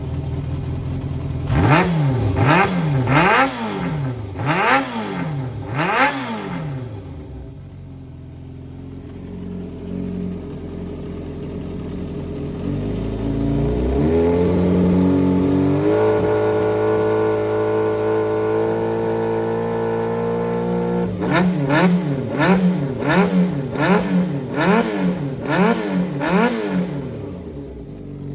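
Yamaha XJR400's air-cooled inline-four engine being blipped with quick throttle revs about once a second, then settling to idle. It climbs and holds a steady raised rpm for several seconds, then is blipped repeatedly again. The seller describes the engine as running well with no abnormal noises.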